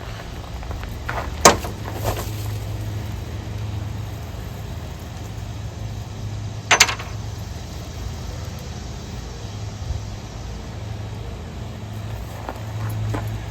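A steady low rumble with two sharp clicks or knocks: a single loud one about a second and a half in, and a quick double one near the middle.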